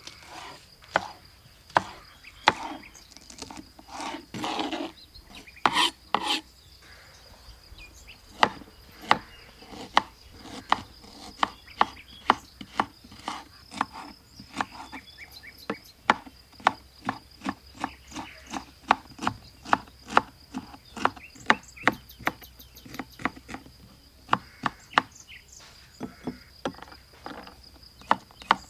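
Knife chopping food on a wooden cutting board: sharp knocks, a few scraping strokes in the first seconds, then an even chopping rhythm of about two strokes a second. A steady high insect drone sounds in the background.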